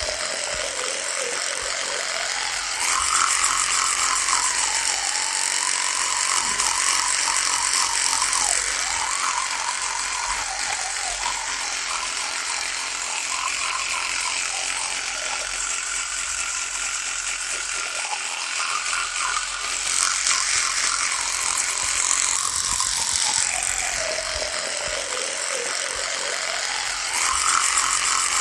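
Electric toothbrush buzzing without a break. Its pitch slowly sinks and rises again every few seconds, and it turns louder and brighter for a few seconds at a time, about three seconds in, around twenty seconds in and near the end.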